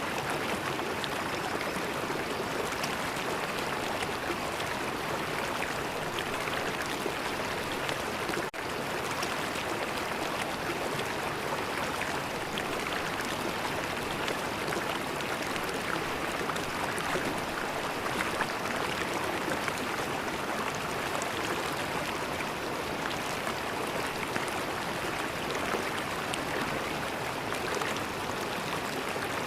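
River water flowing in a steady, even rush, with a split-second dropout about eight seconds in.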